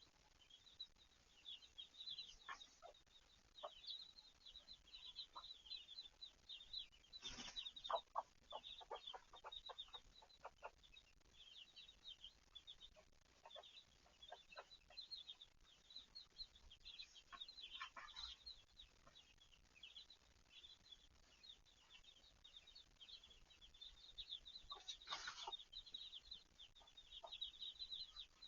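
Korean native chicks peeping continually in high, short chirps while the mother hen clucks to them. A run of about eight quick clucks comes about eight seconds in, with shorter runs later.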